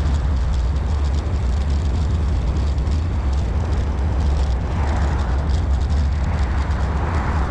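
Wind buffeting the microphone on a moving road bike: a steady low rumble with a hiss above it.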